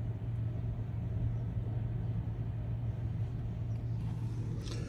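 A truck engine idling, a steady low hum.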